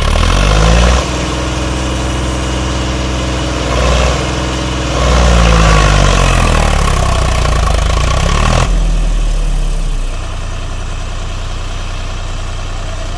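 Sonalika 745 tractor's diesel engine being revved: the revs climb right at the start, rise and fall through the middle, then drop off sharply about two-thirds through and settle back to a steady idle.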